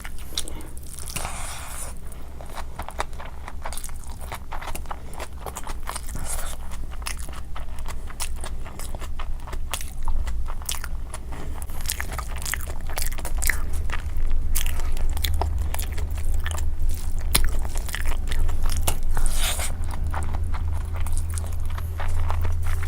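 Close-miked eating of tandoori chicken legs and noodles: repeated bites and chewing with many small crunchy clicks, over a steady low hum.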